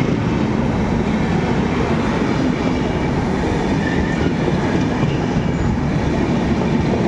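Indian Railways passenger coaches passing close by at speed: a steady, loud rumble of steel wheels on the rails with clickety-clack of the wheels over rail joints.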